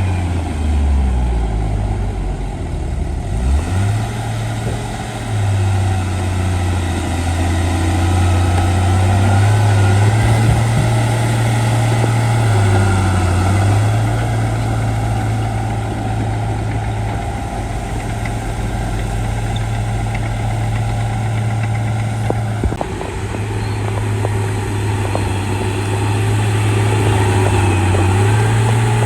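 Shantui D95 bulldozer's diesel engine running under load, its pitch dipping and rising as the load changes while it pushes fill, with a few short knocks.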